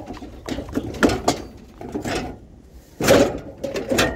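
Irregular knocks, clatter and rustling of objects being handled and shifted into place, with a louder burst about three seconds in.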